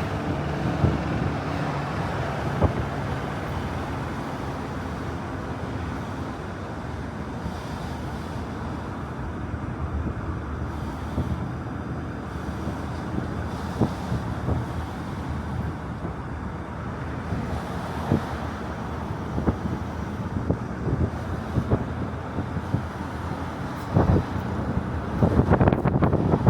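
Outdoor ambience: wind on the microphone over a steady low rumble of road traffic, with a few short knocks. It grows louder and busier near the end.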